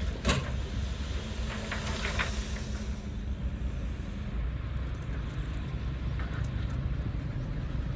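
Diesel engine of heavy earthmoving machinery running steadily, with one sharp knock just after the start and a few faint clanks around two seconds in.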